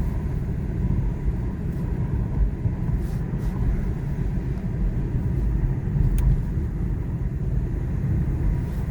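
A car driving along a road, with a steady low rumble of engine and tyre noise.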